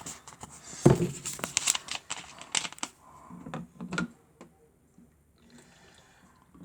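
Clicks and knocks from a plastic Miele W1 toy washing machine being handled, with a hissing noise over the first few seconds. The loudest knock comes about a second in, and the sounds thin out to a few faint clicks after about three seconds.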